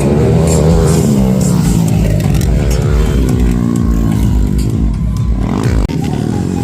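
Motocross dirt-bike engines revving, their pitch rising and falling as the bikes accelerate and shift. The sound changes abruptly almost six seconds in.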